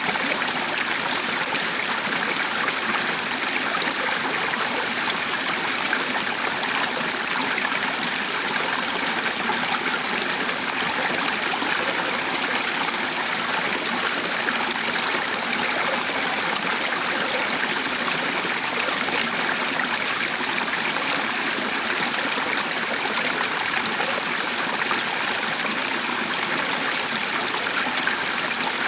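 Running stream, a steady, even rush of flowing water.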